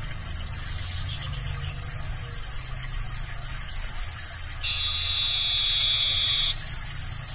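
Common iora (sirtu, or cipoh) giving one long, steady, buzzing trill of about two seconds, starting past the middle, over a low background hum.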